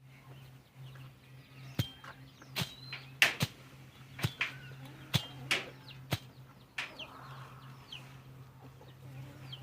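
Chickens clucking, with about ten sharp, irregular clicks and short high calls, over a faint steady low hum.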